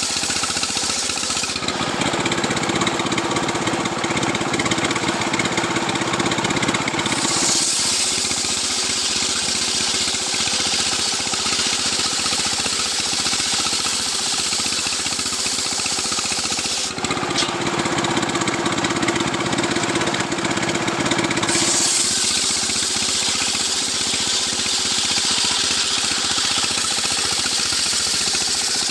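Stihl two-stroke chainsaw running continuously while a coconut palm trunk is cut into beams. Its note changes twice, each time for about five seconds.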